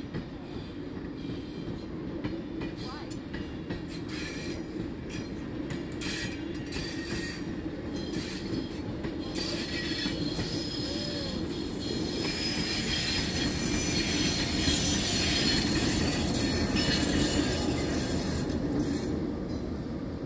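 A heritage diesel-hauled passenger train passing: a steady low locomotive rumble with wheels running on the rails, building to its loudest about three-quarters of the way through. A high-pitched squeal from the wheels comes at the loudest point, then the sound begins to ease.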